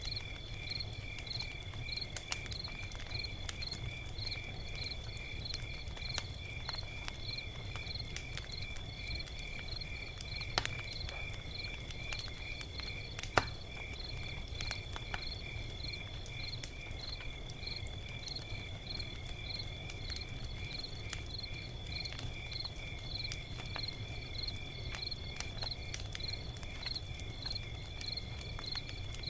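Log fire crackling with scattered sharp pops, two of them louder, over a steady low rumble, with insects chirping throughout: a steady high trill and chirps about twice a second.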